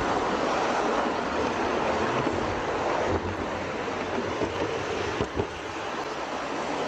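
Train running along the track: a steady rolling noise of wheels on rails, with a couple of brief clicks about five seconds in.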